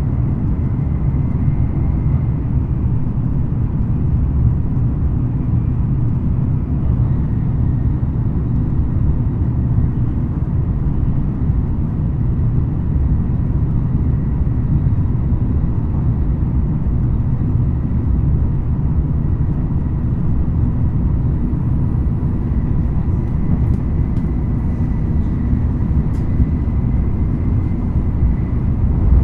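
Running noise inside a JR West N700 series 5000 (N700A) Shinkansen car at a steady speed: a continuous low rumble with faint steady high tones above it.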